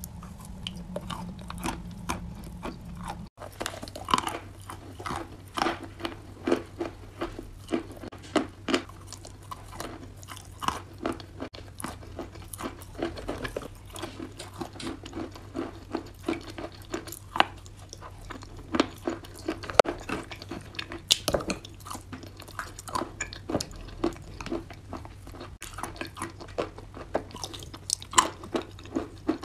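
Chewing and crunching of chalk and clay mixed with a creamy paste: a dense run of sharp crunches, several a second, over a faint steady low hum.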